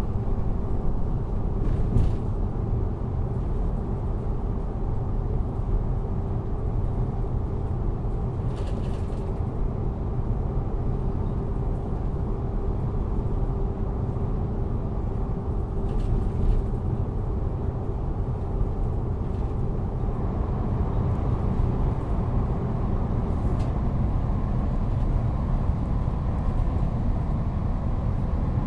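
Train interior while moving: a steady low rumble with a faint even hum, broken by a few brief clicks or knocks spread through. The hum drops out a few seconds before the end.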